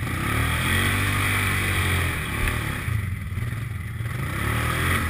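Off-road motorcycle engine revving up and down in repeated blips, the rider throttling to drive the bike out where its rear wheel is stuck in mud.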